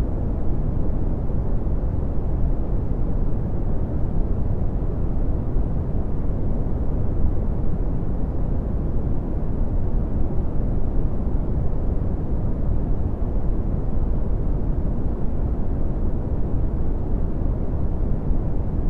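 Red (Brownian) noise: a steady, deep rumbling hiss with most of its energy in the low end and little above about 1 kHz, unchanging throughout.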